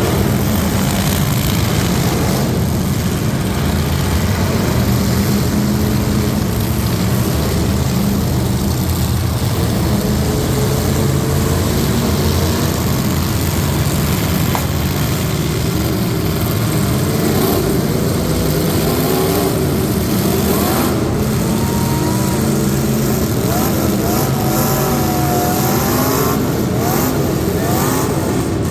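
Loud, steady running of truck engines at a truck competition heat, with engines revving up and down in pitch over the last ten seconds or so.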